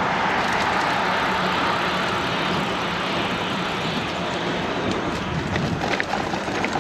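Steady rushing noise of a moving e-bike on pavement: wind over the helmet or handlebar camera's microphone together with the tyres rolling, with a few light clicks and ticks near the end.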